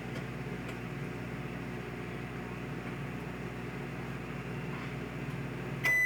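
Microwave oven running with a steady low hum, which cuts off near the end as a loud, high end-of-cycle beep sounds.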